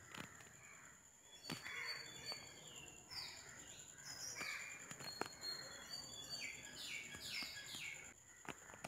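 Birds calling faintly, a series of short chirps that sweep downward in pitch, over a steady thin high whine. A few sharp clicks are mixed in.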